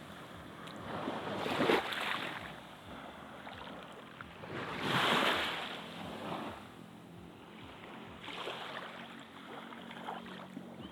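Sea waves washing onto a beach, the hiss of the surf swelling and fading about four times, loudest about five seconds in.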